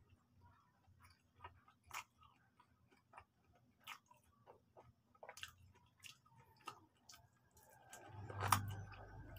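Close-up chewing of crispy fried chicken: scattered small crunches and mouth clicks, then a louder bite with a longer run of crunching near the end.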